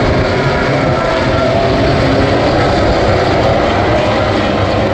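Loud, steady engine noise with several pitched lines running together, from racing machines or aircraft.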